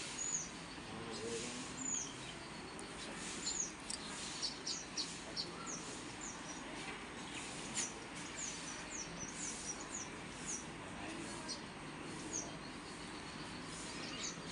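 Small birds chirping: short, high, falling calls, a few at first and coming thicker from about four seconds in, over steady background noise.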